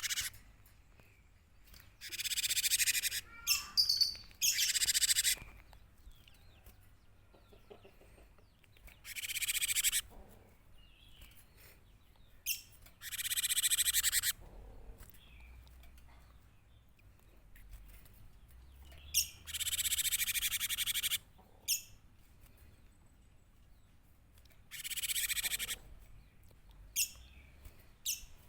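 Gelatik batu (cinereous tit) calling in harsh, rasping bursts about a second long, six times, a few seconds apart, with faint chirps between them.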